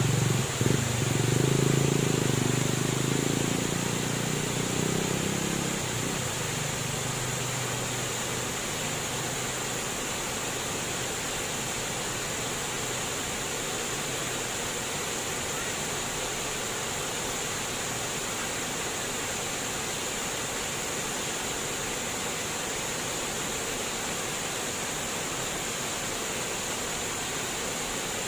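Flowing water babbling steadily. A low rumble, like a passing vehicle, fades away over the first six seconds.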